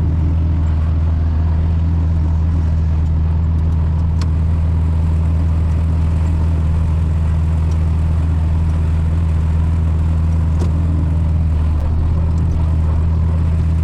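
Tractor engine running steadily while pulling a bush hog rotary mower through a pass, an even low drone that does not change.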